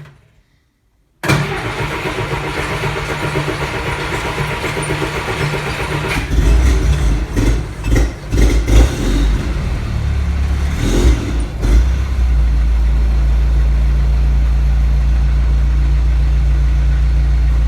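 Jeep CJ5 engine cold-started at 38°F after sitting a week. The starter cranks steadily for about five seconds, then the engine catches and runs unevenly with several surges for about six seconds before settling into a steady idle.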